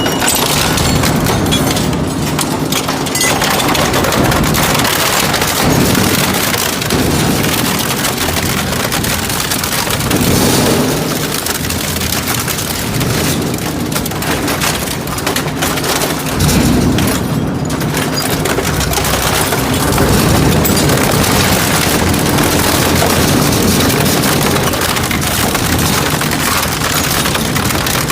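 Industrial metal shredder grinding through scrap metal: a loud, unbroken mass of crunching, cracking and banging over a steady low rumble from the machine.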